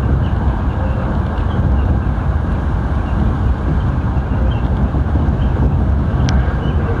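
Sanyo Electric Railway train running, a steady low rumble of running noise mixed with wind buffeting the microphone. A brief sharp high-pitched tick about six seconds in.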